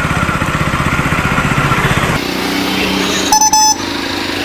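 Motorcycle engine idling with a fast, even pulse, which changes abruptly about two seconds in to a steadier hum. A little past three seconds a short, high, steady beep sounds once.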